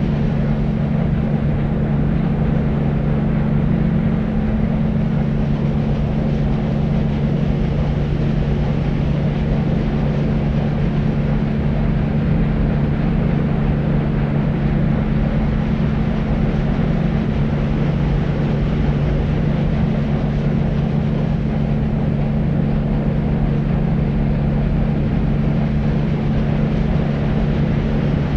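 Steady deep white noise for sleep: an even, low rumbling hiss with a steady low hum in it, unchanging throughout.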